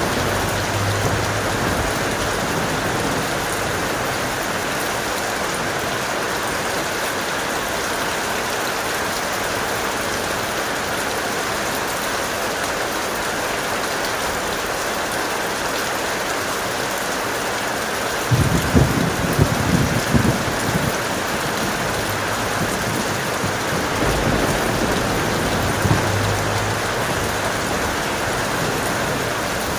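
Steady heavy rain, with a rumble of thunder about two-thirds of the way through and a fainter rumble a few seconds later.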